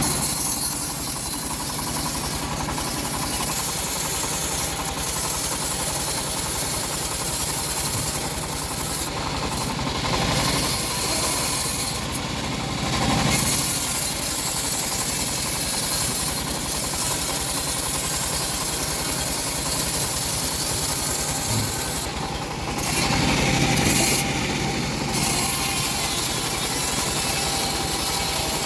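Homemade engine-driven bandsaw mill running steadily, its blade sawing through an old teak log with a dense hiss over the engine's steady hum. The sound shifts briefly about ten seconds in and again a little past twenty seconds.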